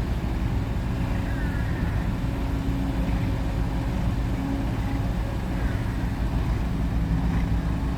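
Heavy diesel engine running steadily at idle, an even low drone with a constant tone over it and no change in speed.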